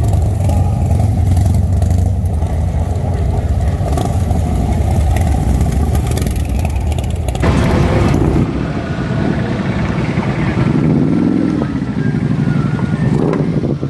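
Motorcycle engines rumbling, with an abrupt change in the sound about seven and a half seconds in, then an engine whose pitch rises and falls.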